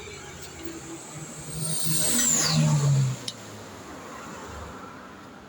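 A motor vehicle engine running up briefly, loudest a couple of seconds in, with a high whine that falls in pitch before it drops away.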